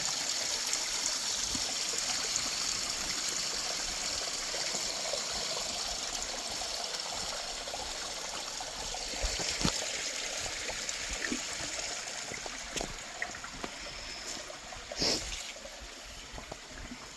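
Small creek water running down a rock slide: a steady trickling rush that slowly grows fainter. A few light knocks, and a sharper one about fifteen seconds in.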